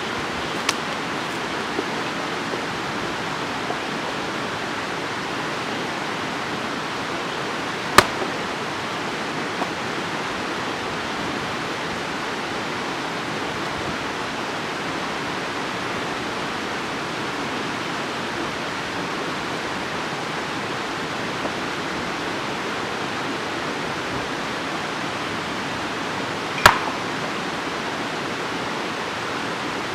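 A steady, even rushing hiss, with a few sharp cracks, the loudest about 8 seconds and 27 seconds in.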